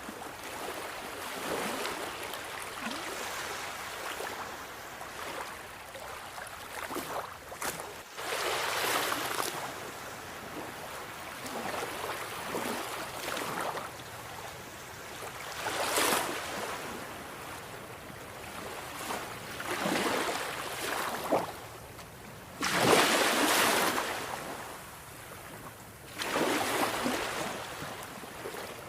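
Sea waves breaking: a continuous wash of surf with about five bigger waves breaking in turn, the loudest about two-thirds of the way through.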